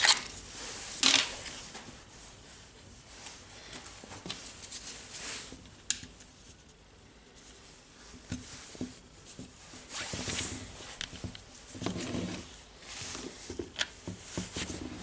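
Small parts being handled and fitted: scattered clicks, scrapes and rustles as carbon brushes are put into the brush holders of a Makita DHR202 rotary hammer. The sounds thin out in the middle and pick up again near the end, with a sharp click about a second in.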